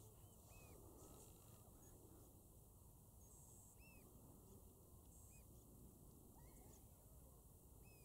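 Faint calls of distant birds over the shore: several short, arched calls scattered a second or more apart, over a low, steady background noise.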